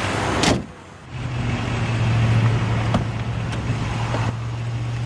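A car hood is slammed shut about half a second in. Afterwards a steady low hum runs on.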